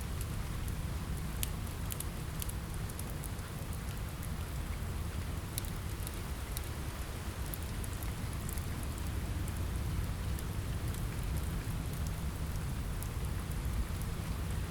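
Steady rain on a window with a low rumble, mixed with sparse, irregular sharp crackles from a wood fire.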